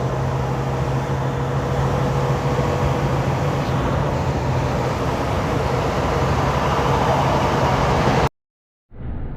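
Semi-truck cab noise at highway speed: a steady low engine drone over road and wind noise. About eight seconds in it cuts off abruptly, and after a short gap a fainter, duller road noise resumes.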